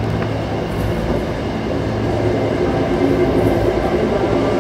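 MBTA commuter rail train in motion, heard from on board: a steady, unbroken running noise of the train on the tracks.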